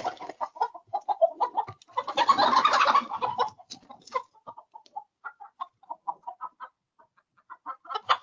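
Chickens clucking and squawking in alarm, with short repeated calls and a louder burst of squawking about two seconds in, as a bear chases them.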